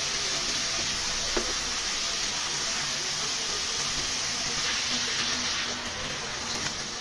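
Whole shorputi fish frying in an onion-spice masala in a pan on a gas burner, a steady sizzle, with one light knock of the spatula against the pan about a second and a half in. The sizzle softens near the end as water is poured into the pan.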